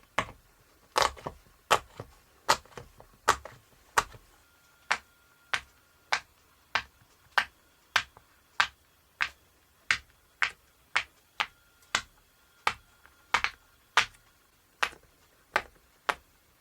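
Pop It silicone fidget toy bubbles being pressed through one after another, each giving a sharp pop, in a steady series of roughly one to two pops a second.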